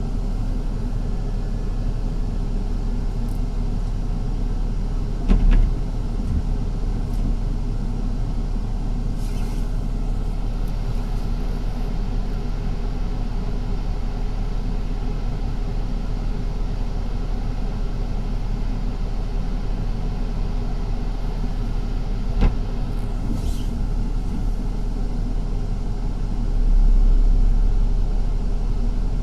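City bus running along the street, heard from inside the passenger cabin: a steady low rumble of engine and road noise. Two brief knocks come through, about five seconds in and again past twenty seconds, and the low rumble swells louder near the end.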